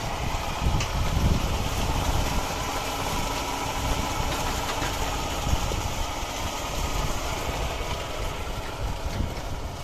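A machine running steadily, with a strong, uneven low rumble.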